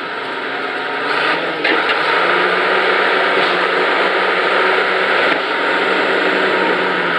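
Diesel engine of a Case 1150C crawler dozer running steadily, getting louder about a second in and holding there.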